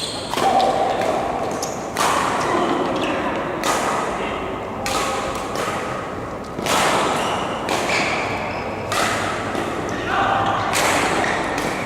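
Badminton rally: rackets striking the shuttlecock about once a second, around nine hits, with short squeaks between them.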